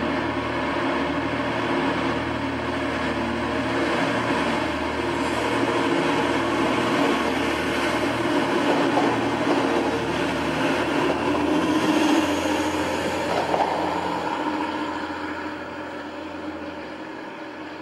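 First TransPennine Express diesel multiple unit running along the platform close by: a steady diesel engine drone with wheel-and-rail noise that grows louder as the train passes, then fades near the end.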